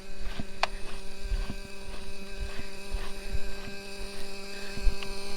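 Traxxas T-Maxx 3.3 nitro engine idling at a steady, unchanging pitch, with wind buffeting the microphone.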